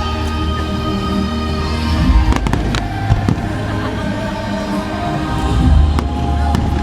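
Fireworks bursting over pyromusical show music: sharp bangs about two and a half seconds in, again just after three seconds and near six seconds, over a low rumble, with the music playing throughout.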